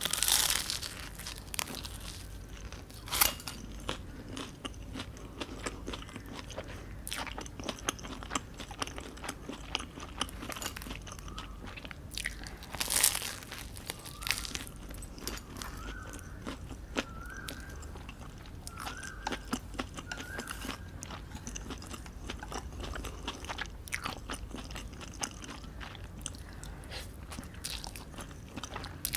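A person eating close to the microphone: biting and chewing with crunchy mouth sounds, and louder bites near the start, about three seconds in and about thirteen seconds in.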